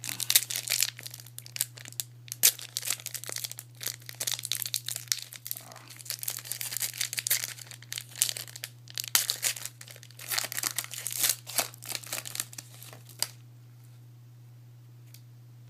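A trading-card pack wrapper being torn open and crinkled in the hands, in a long run of dense crackling that stops about thirteen seconds in.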